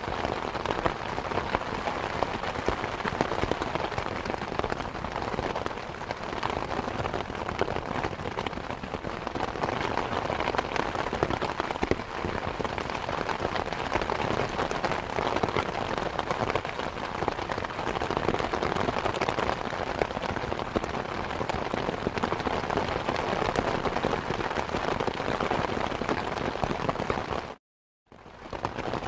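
Steady rain, a dense even hiss of many small drops. Near the end it cuts out to silence for about half a second, then fades back in.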